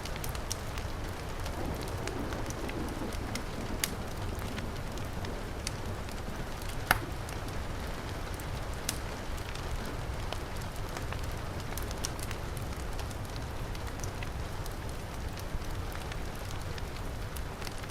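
Heavy rain falling steadily, mixed with a crackling wood fire in a fireplace: a continuous hiss over a low rumble, broken by scattered sharp pops, the loudest about seven seconds in.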